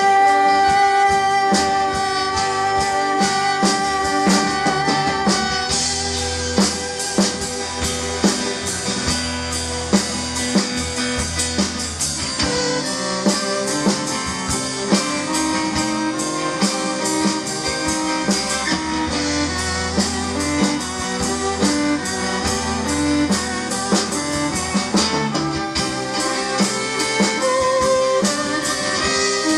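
Live rock band playing an instrumental break with no singing: electric guitar carrying the melody over a steady drum-kit beat.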